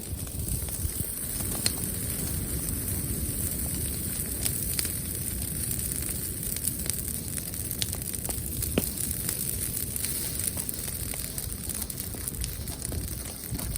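Wood bonfire burning, with scattered sharp pops and crackles over a steady low rushing noise.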